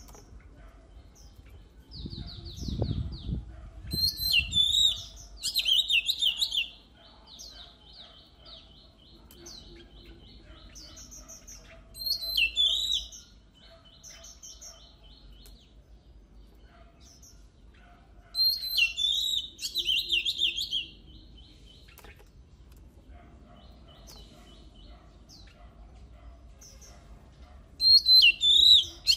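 Oriental magpie-robin singing: loud bursts of varied, sharp whistled phrases every several seconds, with quieter rapid repeated notes between them. A low rumble comes about two to four seconds in.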